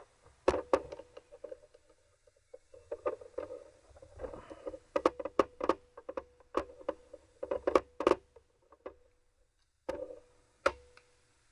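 Hands handling metal tools and engine parts on a workbench: a string of irregular clicks and knocks, with a faint steady hum behind them that stops near the end.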